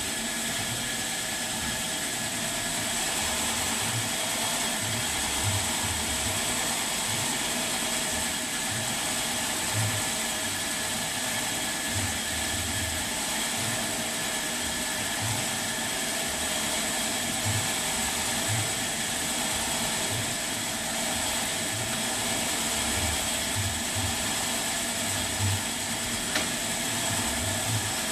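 Sawmill machinery running steadily: a constant motor noise with a high, even whine, and uneven low rumbles coming and going underneath.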